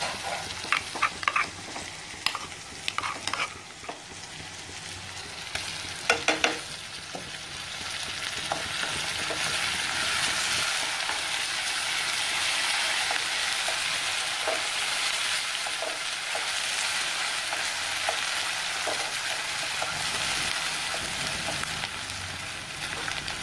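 Chopped onions with a green chilli, garlic and coriander paste frying in oil in a metal kadhai, stirred with a wooden spatula. The spatula scrapes and knocks against the pan in the first few seconds, then the oil settles into a steady sizzle that grows louder and stays up.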